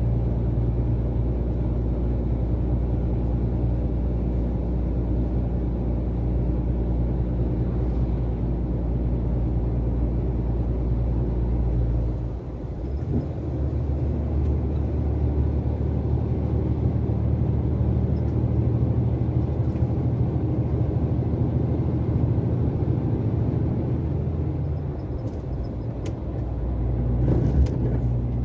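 Heavy vehicle engine running steadily with a low hum, its note dropping and shifting about halfway through and again near the end, with a few light clicks just before the end.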